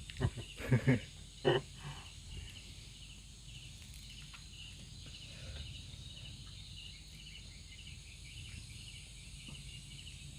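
Crickets chirping in a steady pulsing rhythm against a low background hum, with a few brief voices in the first couple of seconds.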